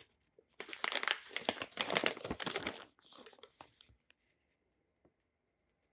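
Plastic dog-treat bag crinkling as it is handled, a dense crackle for about two seconds, then a few fainter rustles that die away.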